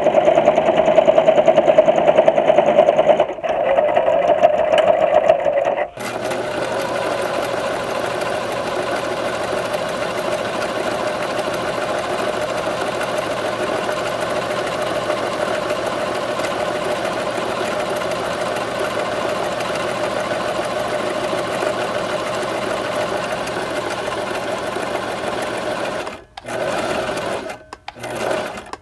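Sewing machine running steadily at speed. Its sound changes a few seconds in, and near the end it stops briefly two or three times before running on.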